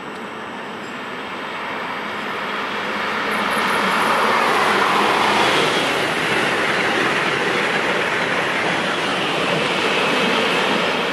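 Amtrak Acela Express high-speed electric trainset passing close at speed: a rushing din of wheels on rail and air that swells as it approaches, is loudest about four seconds in, and stays loud as the cars go by before easing slightly near the end.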